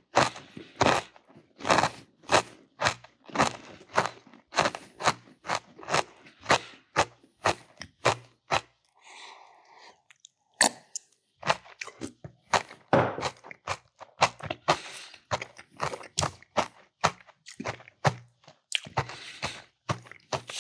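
Close-miked chewing of a crunchy mouthful that includes cheese, at about two chews a second, with a brief pause about nine seconds in.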